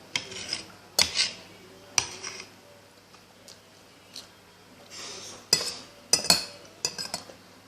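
Cutlery clinking and scraping against a plate while eating: a few separate sharp clinks, then a quick cluster of them near the end.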